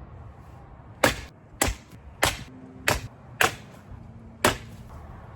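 A restored axe chopping wood: six sharp strikes of the blade biting into the wood, mostly about half a second apart, with a slightly longer gap before the last.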